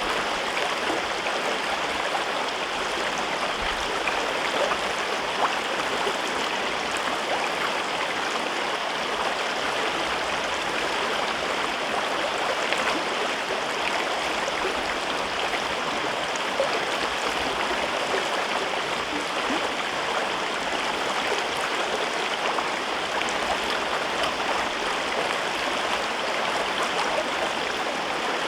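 A river rushing over rocks: a steady, even rush of water with small splashes and gurgles scattered through it.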